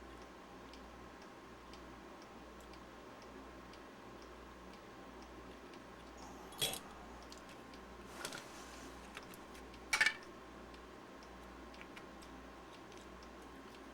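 Plastic battery-pack case and cells being handled and pressed together, giving a few sharp clicks, the loudest about ten seconds in, over a faint steady ticking.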